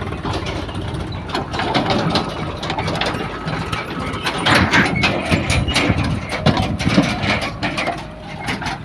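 Diesel engine of a JCB 3DX backhoe loader running, with a run of knocks and clatter in the middle of the sound.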